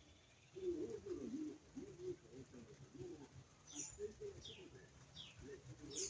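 Birds calling: a low, wavering call in the first half, then from about midway a run of short, high calls, each falling in pitch, about one every 0.7 seconds.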